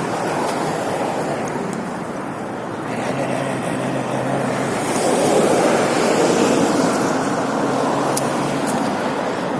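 Riding along a city road: wind noise on the microphone mixed with traffic noise. A low engine hum joins about three seconds in, and the noise swells around five to seven seconds in.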